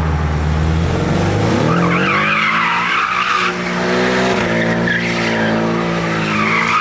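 A car doing donuts: the engine revs up and holds high, and the tyres squeal as they spin and slide, the squeal rising and falling twice.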